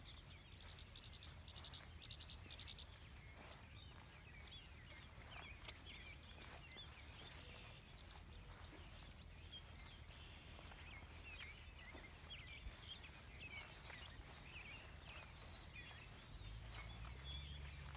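Faint outdoor birdsong: many small chirps and short trills from several birds, over a low steady rumble that grows louder near the end.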